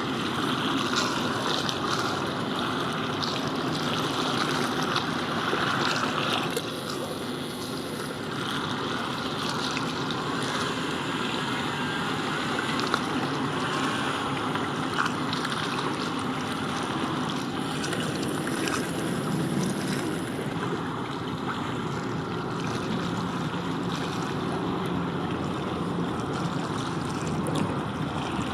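Steady rushing outdoor noise of wind and water, with a faint low hum in the second half.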